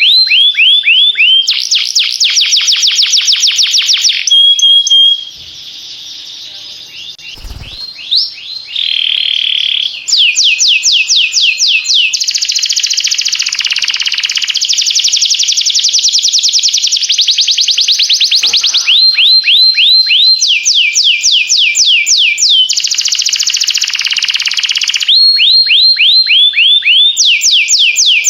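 Domestic canary singing: long trains of rapid, repeated high notes that each sweep downward, one tour after another, with a quieter passage of a held note and short trills a few seconds in.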